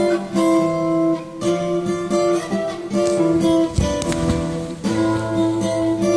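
Acoustic guitar playing an instrumental break in a song's backing track, with strummed and plucked chords and no singing.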